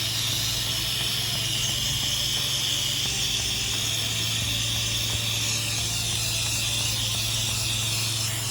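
Pressure washer spraying plain water onto a house's windows: a steady hiss of the water jet over the constant drone of the machine's engine and pump.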